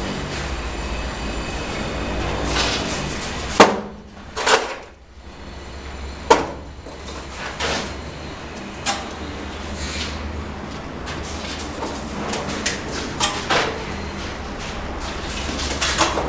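Bricklaying work: sharp knocks and scrapes of a steel trowel against cement bricks and mortar, a few loud strikes in the first half and lighter clicks after, over a steady low hum.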